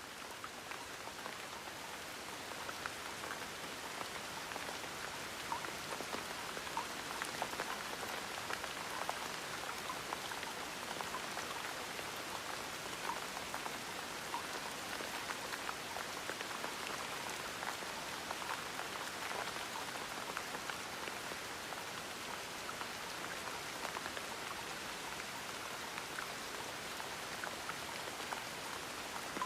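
Gentle, steady rain: an even wash of falling rain dotted with many small individual drops, fading in over the first couple of seconds.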